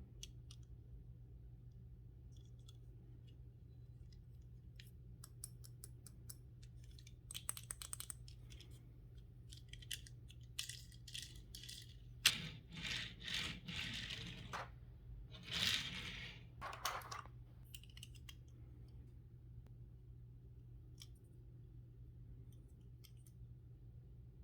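Hands handling toy car packaging: scattered light clicks and taps, then a sharp snap about halfway through followed by two stretches of crinkling and tearing of card and plastic.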